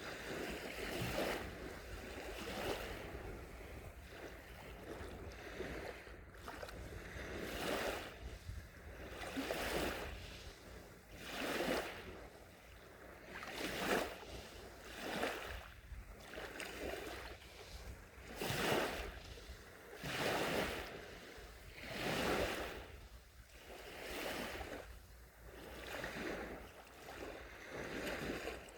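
Small sea waves breaking and washing up the shore, one soft surge after another about every two seconds.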